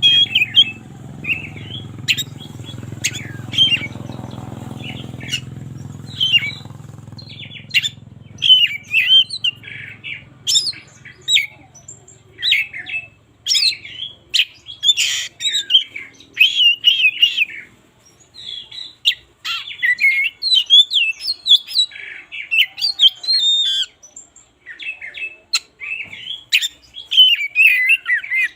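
Oriental magpie-robin singing a long, varied song of whistles and chirps, phrase after phrase with short gaps. A low steady hum sits under the song for the first eight seconds or so, then drops away.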